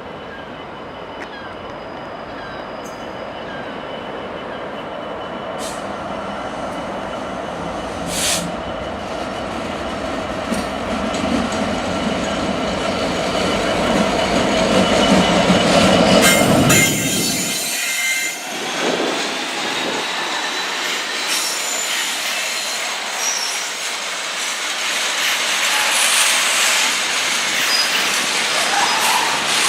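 A train passing on the rails, growing steadily louder, with wheel squeal. About seventeen seconds in, the low rumble stops abruptly, leaving a higher hiss and squealing.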